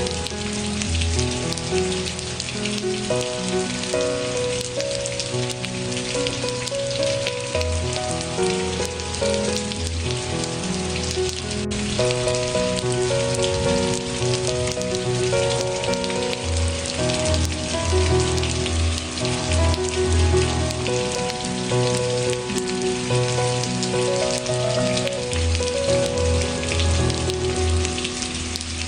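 Steady rain falling on a surface, an even hiss of many drops, mixed with slow, soft instrumental music of long held notes and low bass tones that shift every second or two.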